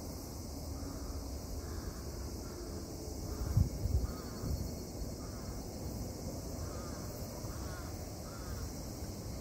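A bird calling over and over in short calls against a steady outdoor background. A few low thumps come about three and a half to four seconds in.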